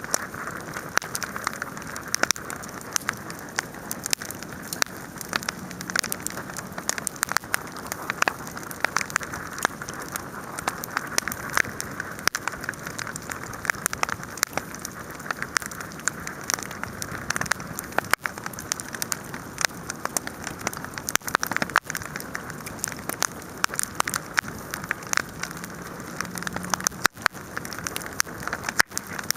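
Wood bonfire burning with steady, dense crackling and popping.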